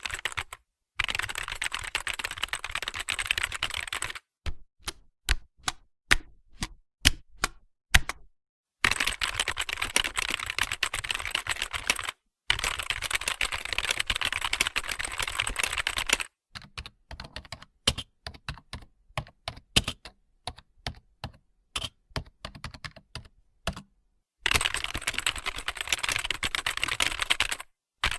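Typing on a computer keyboard: fast runs of rapid keystrokes alternate with stretches of slower, separate key presses, with brief pauses between.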